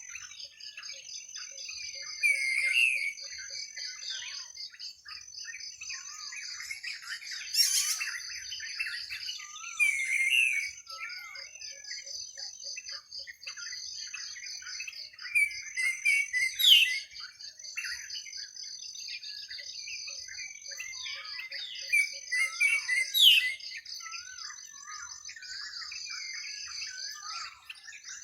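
Many birds chirping and warbling over a steady, fast-pulsing insect trill. Every few seconds a louder call stands out, twice a sharp downward-sweeping whistle.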